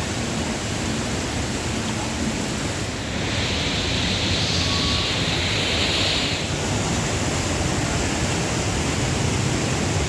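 Steady rushing water, with a brighter hiss from about three to six and a half seconds in.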